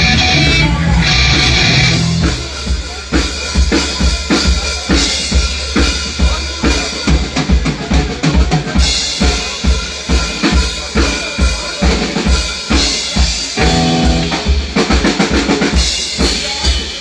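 Live band music: the full band plays for the first couple of seconds, then thins to mostly drum kit keeping a steady beat on bass drum and snare.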